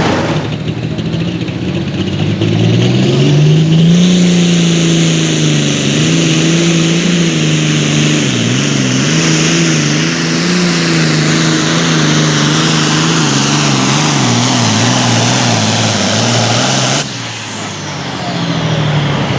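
Pulling tractor or truck engine at full throttle during a pull: the engine note climbs in the first few seconds, then wavers up and down under load, with a thin high whistle rising about four seconds in and held. The engine cuts off suddenly about seventeen seconds in.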